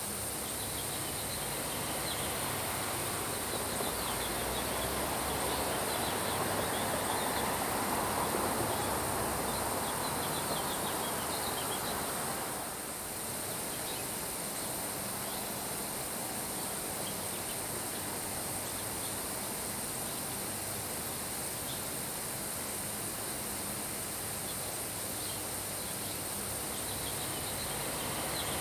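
Steady summer rain falling on grass, with wind swelling in the first half and easing off. Faint short high ticks come scattered throughout.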